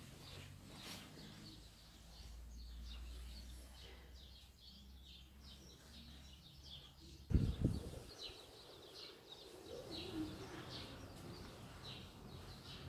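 Small birds chirping over and over in the background, with a low rumble for a few seconds and a loud low thump about seven seconds in.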